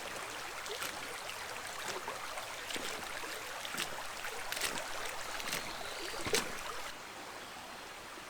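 A stream running and trickling steadily, with scattered small ticks. It turns a little quieter about seven seconds in.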